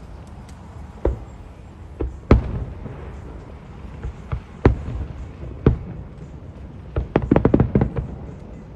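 Fireworks shells bursting: separate sharp bangs every second or two, the loudest about two and a half seconds in, then a quick run of rapid pops near the end.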